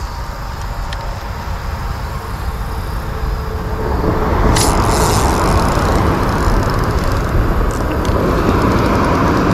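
Steady rumbling, rushing outdoor noise on the river, louder from about four seconds in, with one sharp click about halfway through.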